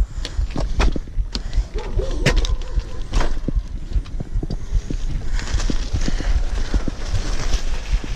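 A bicycle rattling and knocking over a rough dirt trail: many irregular sharp knocks from the chain and frame, over a steady low rumble of wind on the microphone.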